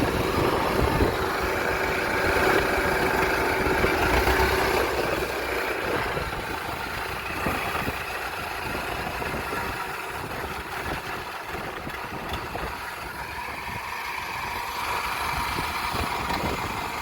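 Kubota DC70 combine harvester's diesel engine running steadily, louder for the first few seconds and then fading to a lower, steady hum.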